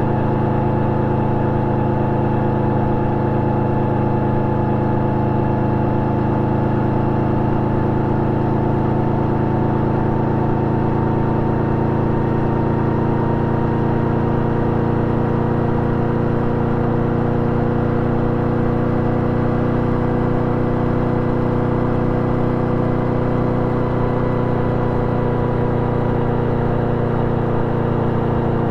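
Yamaha VMAX 1700's V4 engine running at steady cruising revs through an Akrapovic exhaust with a dB-killer fitted, its pitch creeping up slowly.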